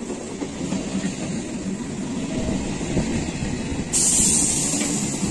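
EMU local train running past on the rails, wheels and coaches rumbling and clattering, growing a little louder. About four seconds in, a sudden loud hiss cuts in for about a second.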